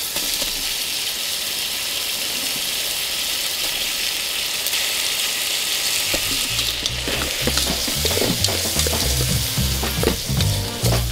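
Sliced meat sizzling steadily as it fries in a camping pot, with a spoon stirring near the end. Background music comes in about six and a half seconds in.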